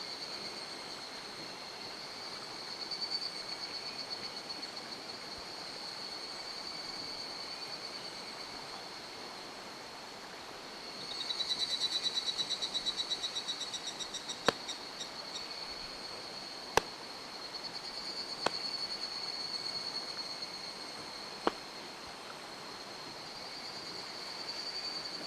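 Steady rush of a mountain stream with a continuous high-pitched trill over it. About eleven seconds in, a louder, rapidly pulsing trill runs for a few seconds. Four sharp clicks or snaps follow, spread over the next several seconds.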